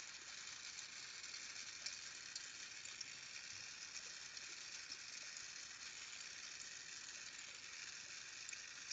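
Steady hiss of a Carlisle glassworking torch flame, with a few faint ticks.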